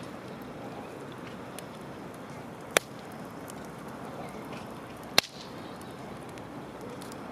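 Wood campfire burning, with two sharp loud pops about three and five seconds in and faint crackles between them.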